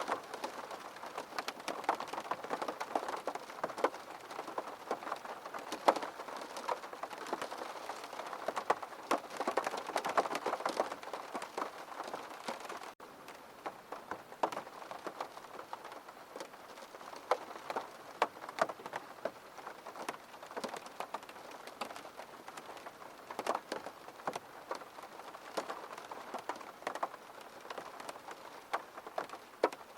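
Rain falling on a window, a steady wash with many separate drops ticking against the glass; it is heavier at first and drops abruptly to a lighter level about 13 seconds in.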